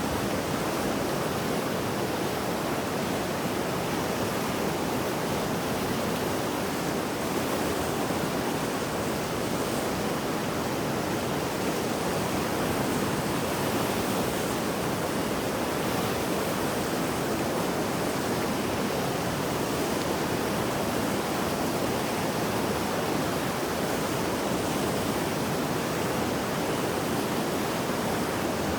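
Mountain river in flood after heavy rain, a steady, dense rush of fast water.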